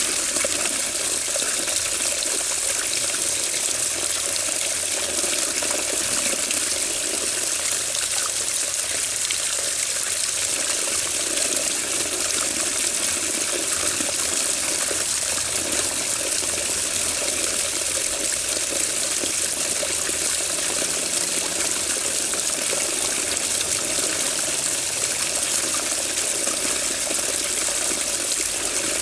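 Water running steadily, an unbroken rushing and splashing with no pauses or changes.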